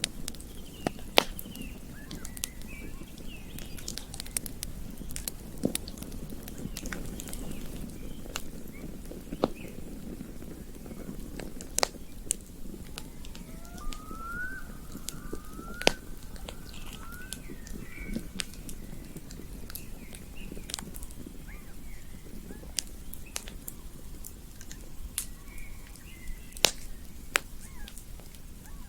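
Campfire crackling: sharp pops at irregular intervals over a low rumble. Faint bird chirps come and go, with a short run of rising whistled notes about halfway through.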